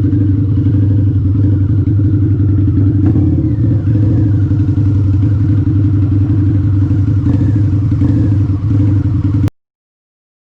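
Harley-Davidson V-Rod V-twin motorcycle engine running at a steady, low, loud note while riding, with no revving. The sound cuts off suddenly near the end.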